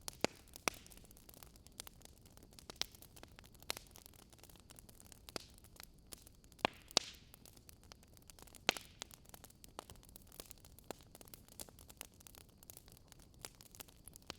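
Wood fire crackling: irregular sharp pops and snaps over a soft steady hiss, the loudest pops coming just after the start and a few times in the middle.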